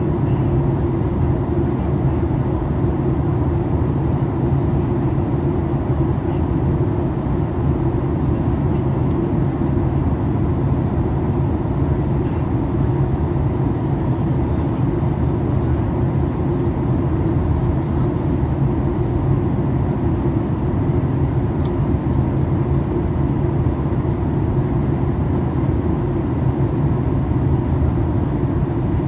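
Steady cabin noise inside a Boeing 737 MAX 8 with CFM LEAP-1B engines: a constant low rumble of engines and rushing air, with no change in level.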